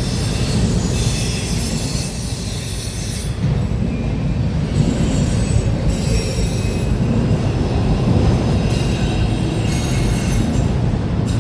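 Freight train rolling past close by: a steady heavy rumble of the cars on the rails, with high, thin wheel squeal coming and going.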